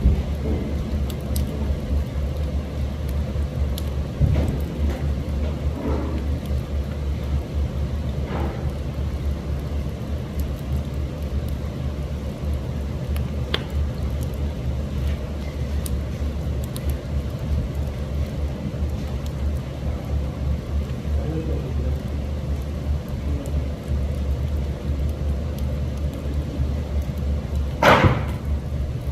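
Wood and charcoal fire burning with a steady low rumble and sparse faint crackles and pops, with a louder rush of noise near the end.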